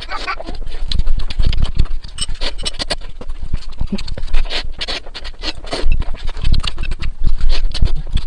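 Close-miked eating of noodles: slurping and chewing with rapid, irregular wet smacking clicks.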